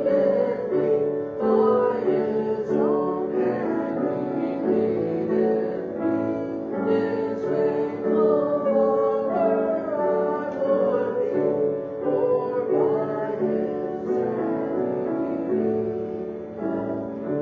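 Singing with piano accompaniment, sustained sung notes over piano chords, typical of church service music.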